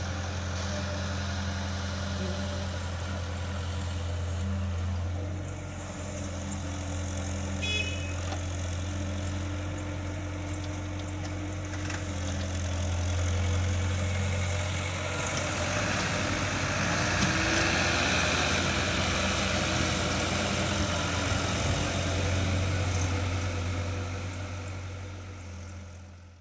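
Tractor engine running steadily with a low, even hum, growing somewhat louder in the second half and fading out at the end.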